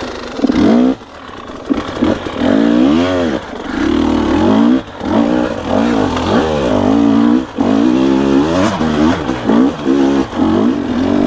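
Dirt bike engine being ridden hard, revving up and dropping back over and over, roughly once a second, with brief breaks in the sound between revs as the throttle is rolled off and opened again.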